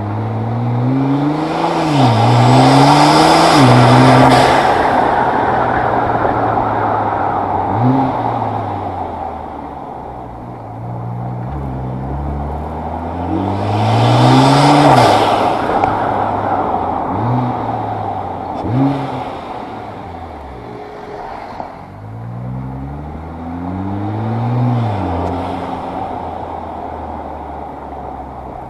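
Nissan GT-R R35's twin-turbo V6 accelerating hard through the gears: the engine note climbs and drops back at each upshift. A rush of noise comes at its loudest pulls, about 3 seconds in and again about 14 seconds in. Between the pulls there are short throttle blips, and a last run up through the gears comes near the end.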